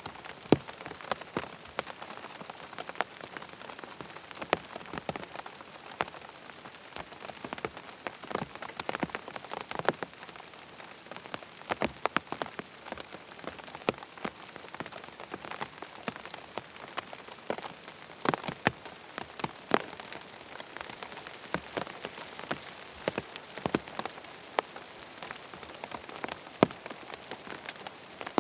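Steady rain falling on a hard surface, with frequent sharp individual drop ticks scattered irregularly through it.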